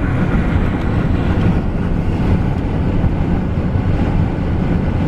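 Steady low rumble of a car driving, with road and wind noise heard from inside the cabin.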